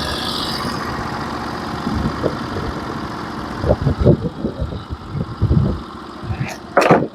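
Norwood HD36v2 portable band sawmill's gas engine running steadily, with a series of irregular knocks and thumps partway through. A sharp clatter comes near the end, after the engine has dropped back.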